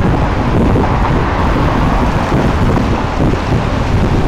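Steady wind rumble on the microphone over the running of a river excursion boat's engine.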